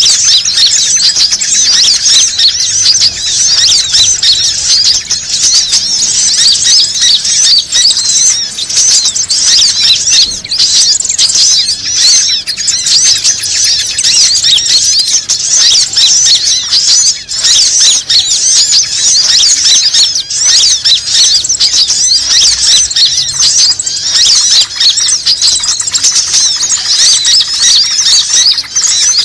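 Dense, unbroken chatter of many small birds chirping and squeaking on high notes: a bird-lure (pikat) call meant to draw birds in.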